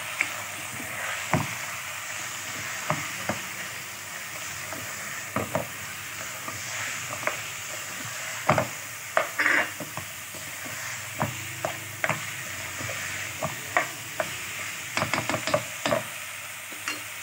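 Meat, onions, tomatoes and spices frying with a steady sizzle in a pot while a spoon stirs them, with irregular knocks and scrapes of the spoon against the pot.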